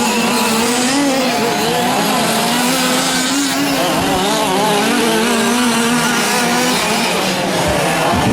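Several 1/5-scale gas RC trucks' small two-stroke engines buzzing together, their pitch rising and falling as the drivers work the throttles around the track.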